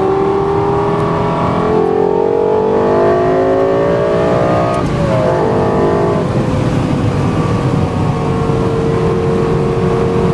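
Lexus LFA's V10 engine heard from inside the cabin, revving up under hard acceleration, then dropping in pitch at a gearshift about five seconds in and running on steadily, easing slightly.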